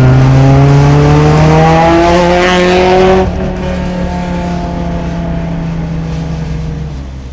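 Honda S2000's Toda-built 2350cc F20C four-cylinder engine revving up hard under acceleration for about three seconds, then the throttle is lifted abruptly and the engine note drops and slowly falls as the revs come down, fading away near the end.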